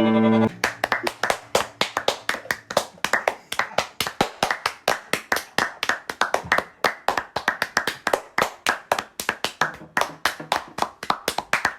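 A music track ends about half a second in, then hands clap quickly and unevenly, about four or five claps a second, until the end.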